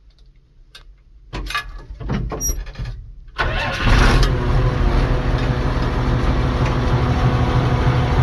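White 2-105 tractor's Perkins six-cylinder turbo diesel, straight-piped, cranked by the starter for about two seconds, catching about three and a half seconds in and settling into a steady idle. Heard from inside the cab.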